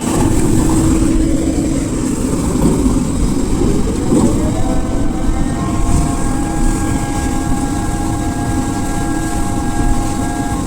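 Heavy digging machine's diesel engine running loudly, its pitch rising about four seconds in and then holding at the higher speed.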